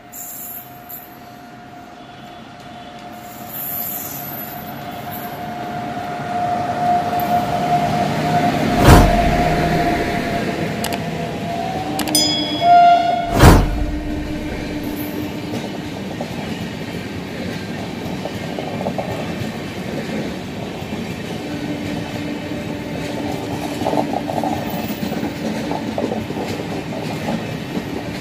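Electric locomotive of an Indian express passenger train passing at speed, sounding one long horn note that grows louder as it approaches, then a second horn blast about twelve seconds in. Two loud thumps mark the locomotive going by. The long rake of coaches then rolls past with steady rumbling and wheel clatter.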